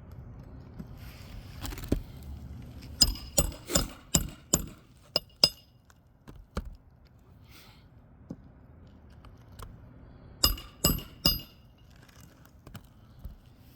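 A 16-ounce hammer driving roofing nails through asphalt shingles. A quick run of about six ringing metal-on-metal strikes is followed by a pause, then three more strikes near the end.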